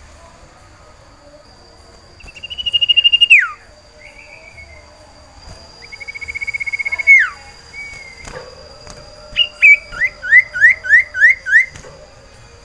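Male common iora (cipoh sirtu) singing in breeding condition, calling for a female: two long, held whistles that each drop sharply in pitch at the end, then a quick run of about six short notes near the end.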